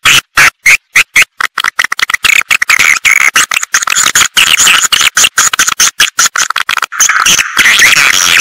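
Recorded swiftlet calls played back as a lure for swiftlet houses: dense, rapid chirping and twittering in quick choppy bursts with very short gaps.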